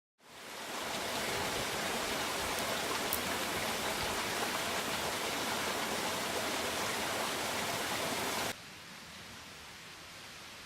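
Steady rush of running water from a stream, fading in at the start. About eight and a half seconds in it cuts off abruptly to a much quieter outdoor background.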